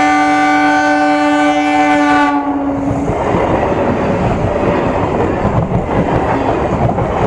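Three-phase Medha EMU train sounding its horn loudly, the note sagging slightly in pitch before cutting off about two and a half seconds in. The train then rumbles and clatters over the rails directly above the microphone.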